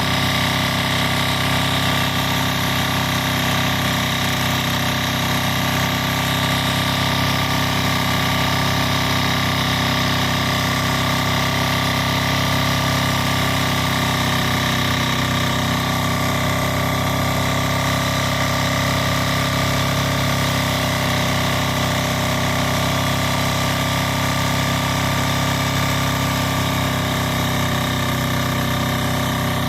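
Kubota rice combine harvester running steadily, a constant engine drone with a steady whine of machinery over it.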